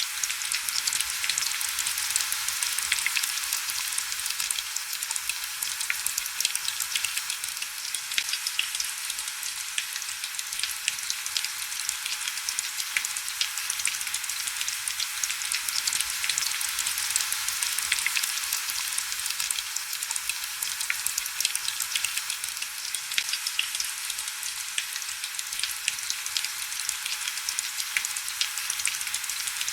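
Heavy rain against window glass: a steady, dense crackling patter of countless fine drops, high and hissy, with almost no low rumble.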